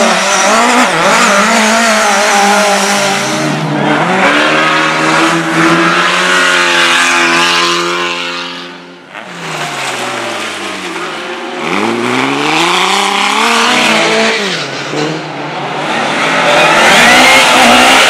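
Race car engines at full throttle, revving up and down through gear changes. The note holds steady for a few seconds, then drops and quiets sharply about nine seconds in as the throttle lifts, and climbs again to its loudest near the end.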